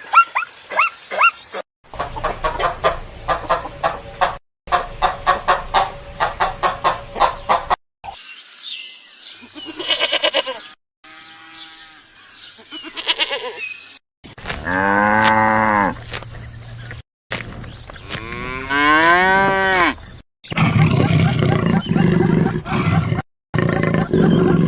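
A run of separate farm-animal sound clips joined by abrupt cuts: fast repeated calls early on, then cattle mooing in long calls that rise and fall in pitch, twice around the middle, and a lower, denser call near the end.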